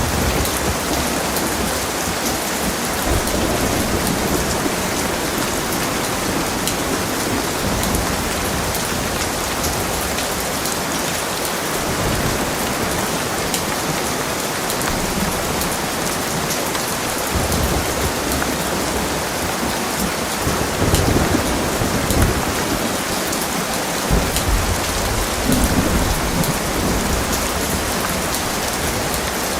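Heavy rain falling steadily, with low rolls of thunder rumbling under it several times, strongest about two-thirds of the way through.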